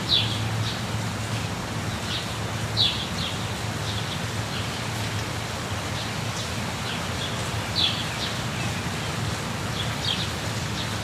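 Steady rush of a waterfall with short, high bird chirps breaking in every couple of seconds, the loudest about three and eight seconds in.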